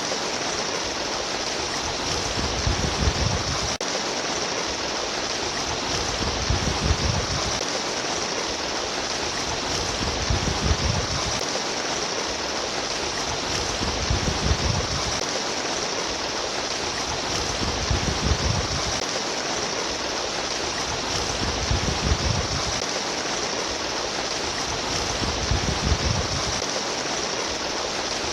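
Flowing water rushing and babbling steadily, with a low rumble that swells and fades about every four seconds.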